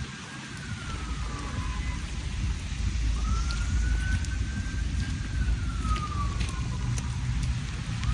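A siren wailing slowly, its pitch rising, holding and falling about once every five seconds, over the steady hiss of rain and a low rumble.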